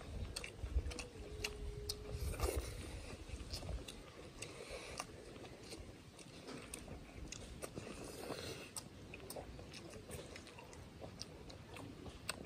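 Close-up eating sounds of people chewing pork with their mouths near the microphone: soft chewing with many small wet clicks and lip smacks.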